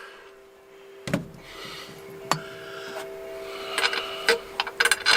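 Hand work on a metal step bracket: scattered knocks, then a quick run of clicks and clinks near the end as tools and bolts are handled, over a faint steady tone.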